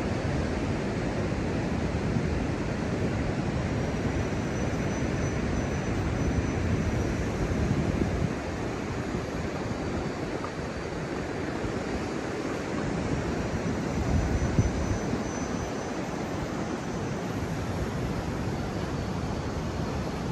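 Indian Ocean surf breaking on the shore: a continuous low rushing of waves that swells and eases, with some wind.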